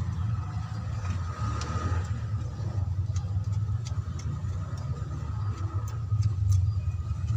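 Steady low rumble of an engine running at idle, with a faint steady whine above it and scattered light clicks and taps.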